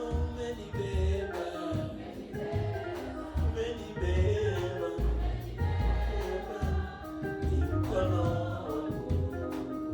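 Gospel singing in church with keyboard and drums, a sung melody over a steady bass beat.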